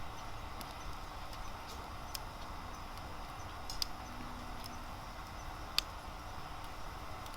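Wood fire crackling in a fire pit: a steady soft hiss with scattered sharp pops, the loudest about six seconds in.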